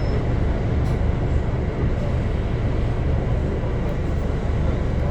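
Scania Enviro400 double-decker bus running, a steady low engine rumble with road noise.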